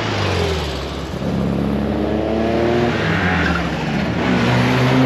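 Car engine accelerating away, the revs rising, dropping about a second in and again around three seconds in as it shifts gear, then rising again near the end.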